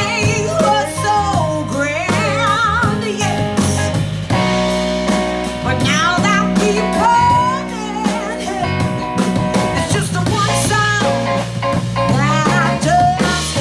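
Live blues band playing a passage with no words: steady bass and drums under a melodic lead line that slides and wavers with vibrato.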